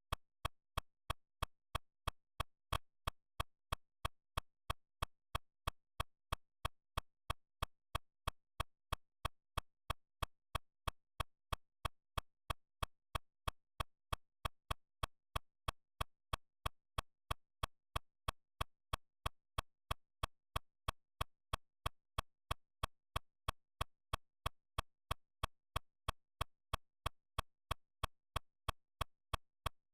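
A steady series of sharp, evenly spaced clicks, about two and a half a second, with silence between them.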